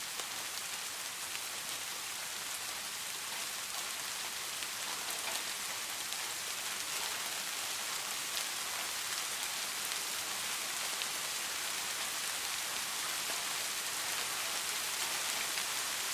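Steady rain falling, an even hiss with many fine drop patters.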